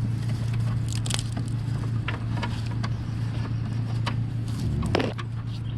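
A few sharp clicks and knocks of fuel line fittings being worked and connected under a car, over a steady low hum.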